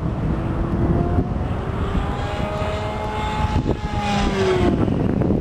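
Electric RC pylon racer flying a fast pass: the brushless outrunner and propeller whine grows, holds, then drops in pitch as the plane goes by, with wind on the microphone.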